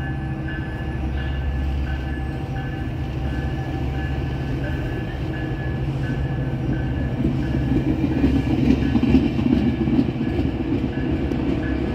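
Bilevel commuter train pulling out past the platform, its cars rolling by with a steady low rumble that grows louder near the end as the last car passes. A bell rings steadily, about three strokes every two seconds.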